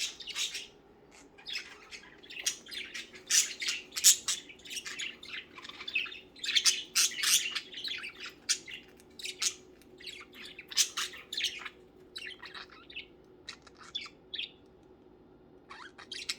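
Budgerigars chattering in rapid short, high chirps and calls, thinning out over the last few seconds.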